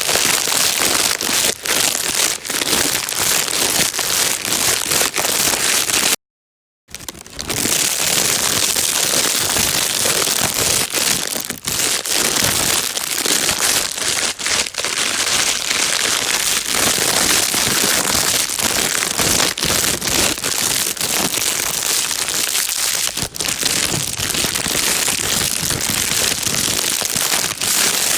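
Plastic bag being crinkled and rustled continuously, a dense crackling hiss used as white noise for calming a baby. It cuts out completely for under a second about six seconds in, then resumes.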